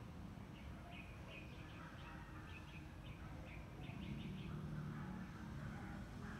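Faint outdoor ambience: a small bird chirping in short, quick notes over a steady low rumble, with a low hum swelling for a second or so about four seconds in.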